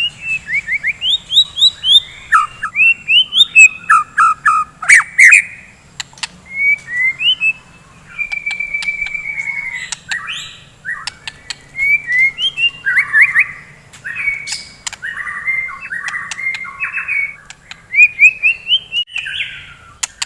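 White-rumped shama (murai batu) singing a varied song of quick whistled phrases and harsh notes, broken by sharp clicks. A steady trill comes about midway, and there are short pauses between bouts.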